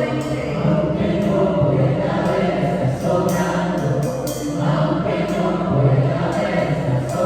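Drum kit played along with a worship song, with singing voices and bass, picked up as room sound by a phone's microphone; cymbal hits recur throughout.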